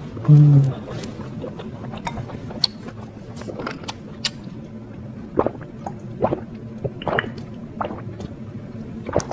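Close-miked eating of spicy noodles: scattered short wet clicks and smacks of chewing and slurping, with a brief low hum about half a second in.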